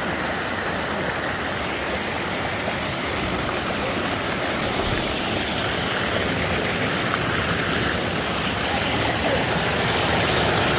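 Steady rushing of a mountain stream, growing a little louder towards the end.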